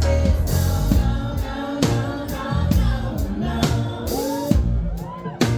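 Live band performance with a woman singing over a drum kit; the drums hit steadily throughout, and the voice slides between notes in the second half.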